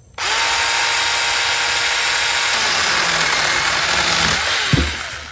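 SeeSii 6-inch cordless mini chainsaw starting suddenly and cutting through a thick branch at a steady pitch. A sharp thud comes near the end, and then the saw winds down.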